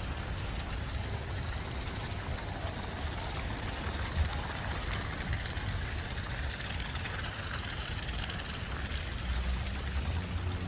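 Steady city street noise: a low rumble with a hiss over it, and a single short knock about four seconds in.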